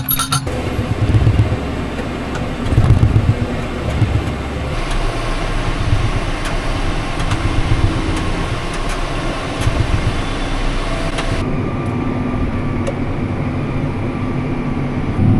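Farm tractor engine running steadily, its sound changing abruptly a few times.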